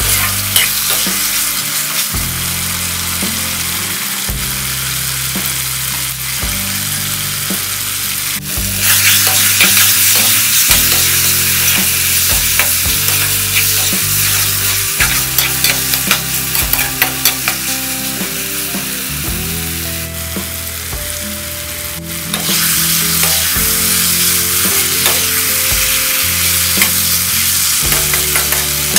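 Green peas, tomato and onion sizzling in hot oil in a metal kadai while a spatula stirs them, with short scraping strokes against the pan. The sizzle grows louder about nine seconds in, eases off, and picks up again near the end.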